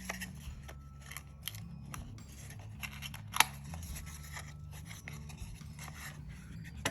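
Small desk handling sounds: light rustling and soft clicks of stationery being handled, with one sharper click about three and a half seconds in.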